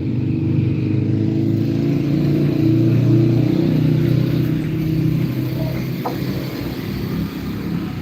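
An engine running steadily, swelling a little about three seconds in and easing off after.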